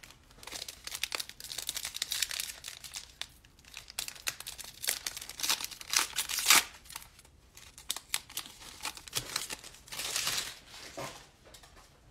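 A trading-card pack wrapper being torn open and crumpled, crinkling in irregular bursts.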